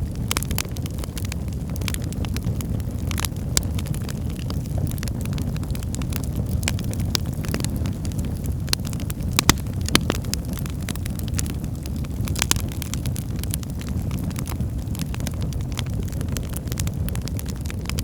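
Wood fire burning in a fireplace: a steady low rumble of flames with frequent crackles and sharp pops from the burning logs, a couple of louder pops about halfway through.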